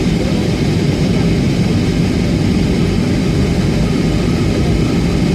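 Steady cabin drone of an Airbus A320 airliner in flight, engine and airflow noise heard inside the passenger cabin, heaviest in the low range and even throughout.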